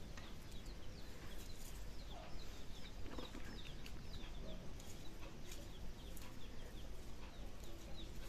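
Faint bird calls: many short, high, falling chirps scattered throughout, over a low rumble.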